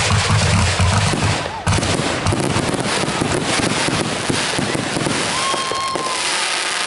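Consumer fireworks going off: a loud rushing noise with a low rumble for the first second and a half, then dense crackling and popping that carries on through the rest.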